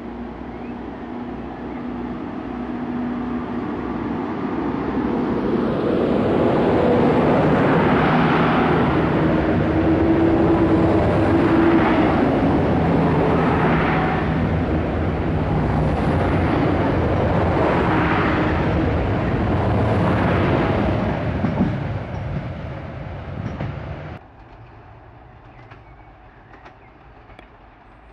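A train passes close by on the track. The sound builds, then holds loud, with wheel noise surging about every two seconds as the cars roll past. It drops off abruptly a few seconds before the end.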